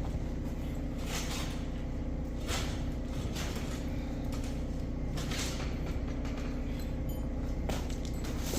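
Tractor engine running steadily, with several short scraping noises from the loader's hydraulic cylinder as its piston and rod are pulled out of the barrel.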